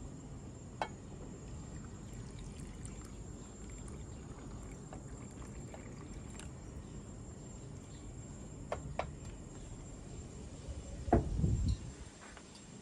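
Liquid pouring or trickling over a steady low background, with a light click about a second in, two clicks close together around nine seconds, and a short, louder knock near the end.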